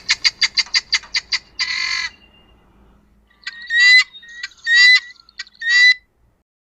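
Helmeted guineafowl calling: a fast rattling run of harsh repeated notes, about five or six a second, then after a pause three loud harsh calls about a second apart.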